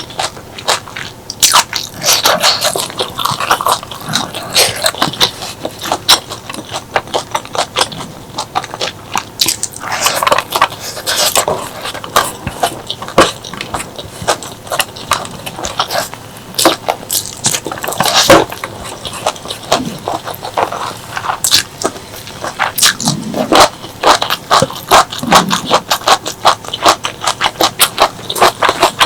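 Close-miked eating: a person biting and chewing crunchy food, with many quick, crisp crunches and wet mouth sounds.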